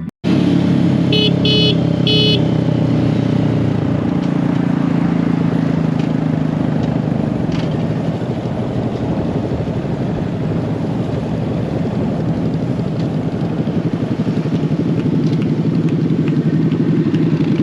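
Small mini bike engines running steadily while riding, with three short toots of a horn about a second in.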